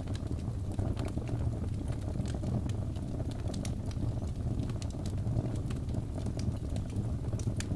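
Wood fire crackling: a steady low rumble of burning, with scattered sharp pops and snaps several times a second.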